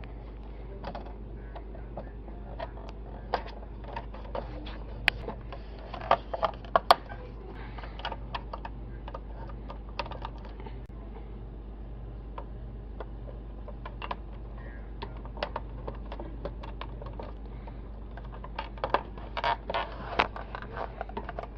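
Light plastic clicks and knocks as a refrigerator temperature control switch is handled and pushed back into its plastic housing, scattered throughout with a quick cluster about six seconds in and another near the end, over a steady low hum.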